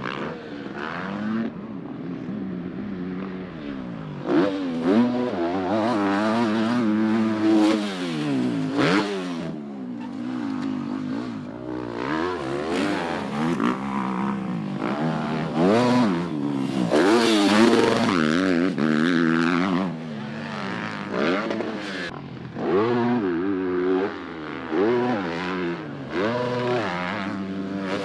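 Dirt bike engines revving up and dropping off over and over as the bikes race around the track.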